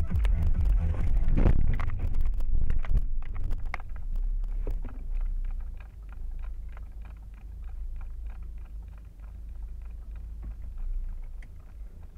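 Steady low rumble of a car driving, heard from inside the cabin. Loud music fills the first few seconds, then the level drops.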